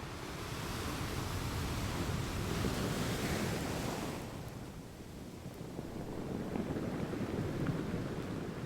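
Ocean surf: a wave swells and washes in, peaking about three seconds in and falling away at about four seconds, then a second wave builds near the end.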